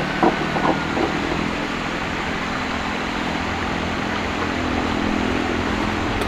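A few knocks in the first second, then a small motor or engine running steadily with a low hum.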